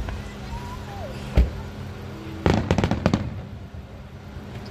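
Aerial fireworks: a single sharp bang about a second and a half in, then a quick run of crackling pops about a second later as a gold shell bursts.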